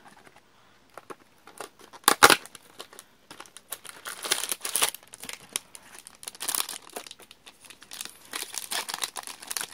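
Lemon Pocky snack packaging being torn open and handled: a sharp tear about two seconds in, then a long run of crinkling of the wrapper.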